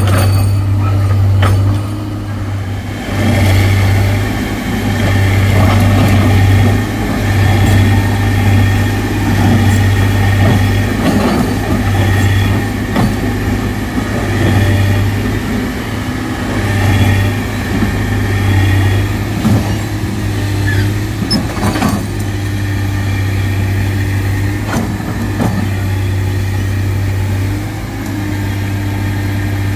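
Excavator's diesel engine running and working under changing load, its deep hum swelling and easing every second or two. A fainter whine rises and falls above it, with a few sharp knocks.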